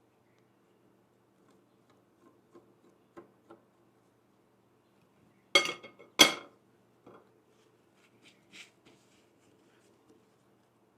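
Kitchenware clinking: a few light taps, then two sharp, ringing clinks about halfway through, followed by a few softer clicks.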